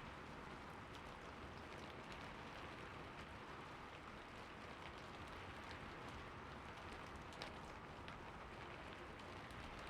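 Soft rain falling steadily: an even hiss with many small drop ticks, and one slightly louder drop about seven seconds in.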